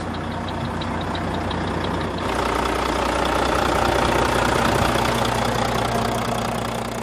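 Volvo FH12 460 truck's 12-litre inline-six diesel running, with a faint regular ticking at first; about two seconds in the engine note steps up and gets louder, then holds.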